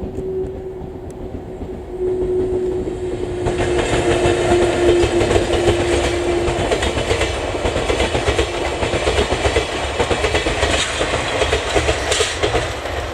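Locomotive-hauled passenger train, DD51 diesel and EF64 electric locomotives with 12-series coaches, passing close by: the rumble swells about two seconds in and becomes a dense run of wheel clatter over rail joints. A steady tone sounds through the first half.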